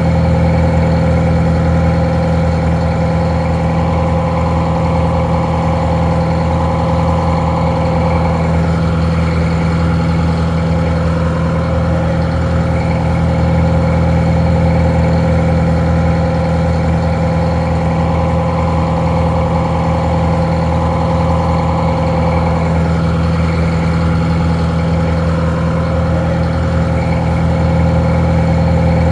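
Detroit Diesel 4-71 two-stroke diesel engine idling steadily, its sound a little muffled.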